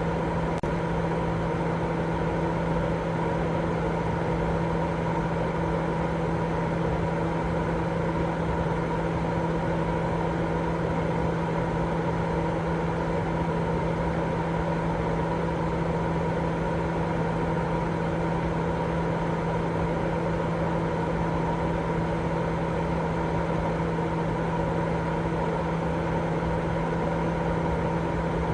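Continuous sleep-aid noise with a steady low hum running through it, like a motor or fan drone. It stays completely even, without any change or break.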